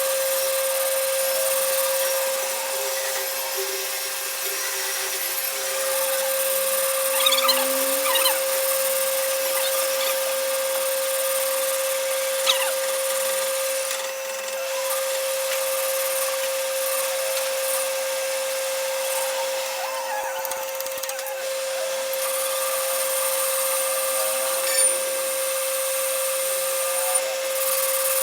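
An electric power tool's motor running steadily with a constant whine, with a few short clicks and scrapes from work on a motorcycle wheel hub's bearing bush.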